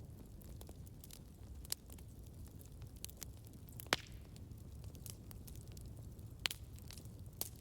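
Campfire burning: a low steady rumble of the flames with scattered sharp crackles and pops of the wood, the loudest pops about two seconds in, about four seconds in, and twice near the end.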